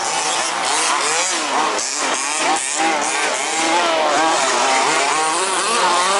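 Several 1/5-scale petrol RC buggies' small two-stroke engines revving up and down together, their pitches rising and falling and overlapping as they race.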